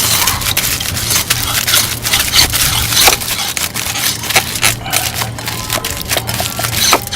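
Aluminium foil being crumpled and pressed tight around a block of beef, a dense run of loud crinkling and crackling.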